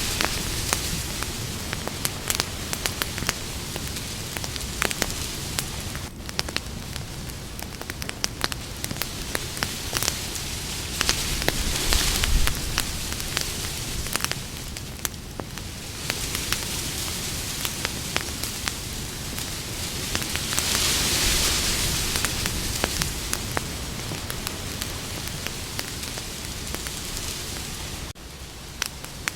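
Campfire burning, with many small sharp crackles and pops over a steady hiss that swells up a few times and drops back briefly near the end.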